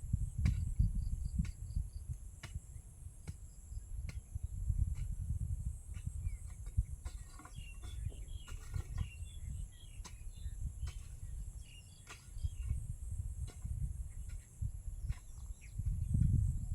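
Rural outdoor ambience: insects buzzing steadily at a high pitch, with a short run of bird chirps in the middle. A low rumble swells and fades underneath, and scattered light clicks or taps are heard throughout.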